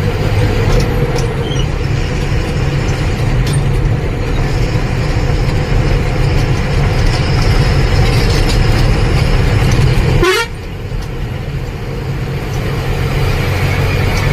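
Truck engine and road noise heard from inside the cab while driving, a steady low rumble. About ten seconds in, a short rising chirp sounds and the engine noise drops suddenly, then slowly builds again.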